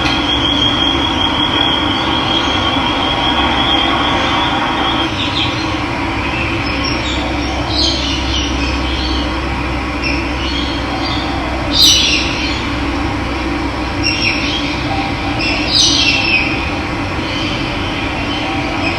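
Steady rush of running water, with birds calling over it: a rapid trill in the first few seconds, then several short downward-sweeping calls, the loudest about twelve and sixteen seconds in.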